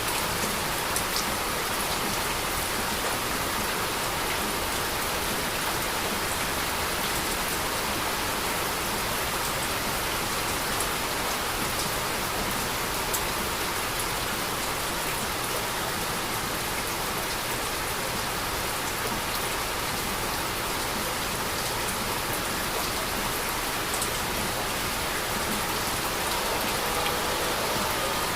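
Steady heavy rain falling: an even, dense hiss with a few sharp drop ticks here and there.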